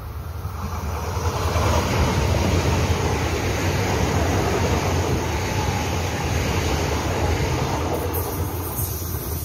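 ITX-Saemaeul electric multiple-unit train passing close by: a steady rush and low rumble of wheels on rail, building over the first second or two as it nears, then easing slightly near the end as it draws away.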